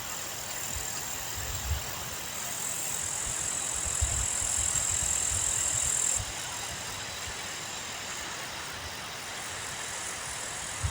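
Wind outdoors buffeting the microphone in low, uneven rumbles over a steady noise. A high, thin hiss rises a couple of seconds in and stops abruptly about halfway through.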